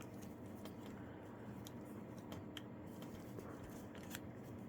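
Faint scattered clicks and ticks of plastic toy parts being handled and adjusted, over a low steady hum.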